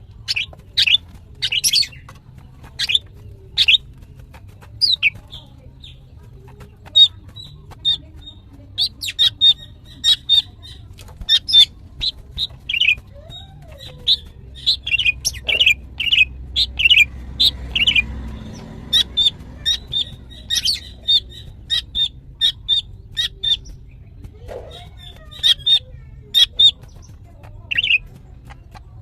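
Female green leafbird (cucak ijo) calling in fast runs of short, sharp, high chirps broken by brief pauses: a female in breeding condition calling to males.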